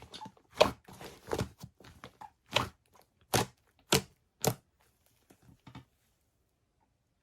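Bread being torn and crunched close to the microphone: a string of crisp, irregular crunches that stop about six seconds in.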